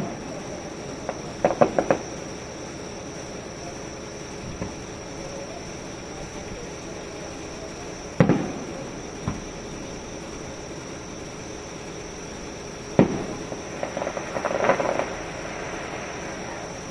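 Fireworks display: single booming shell bursts about halfway through and again near three quarters of the way, with short runs of crackling pops a couple of seconds in and near the end.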